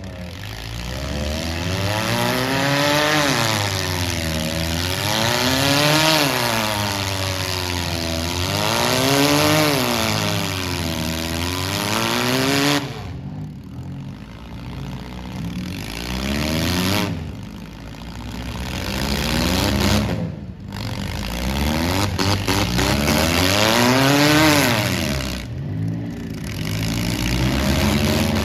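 Demolition derby car engines revving hard over and over, the pitch rising and falling about every three seconds, with a few short drops where the throttle is let off.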